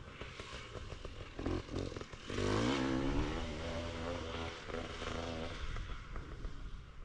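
Dirt bike engine, quiet at first, then revving up with rising pitch about two seconds in, holding for a few seconds and easing off near the end.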